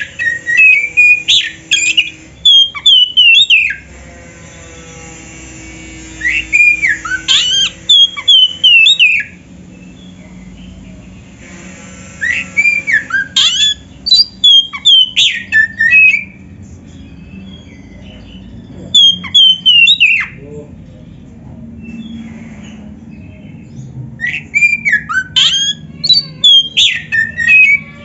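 Oriental magpie-robin (kacer) singing loud bursts of varied, fast whistled phrases with quick rising and falling notes, five bursts of a few seconds each with short pauses between.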